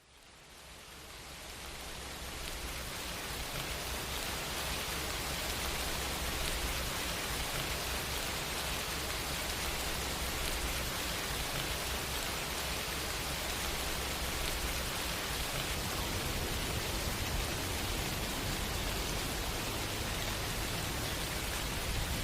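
Steady, dense rain falling. It fades in from silence over the first few seconds and then holds even.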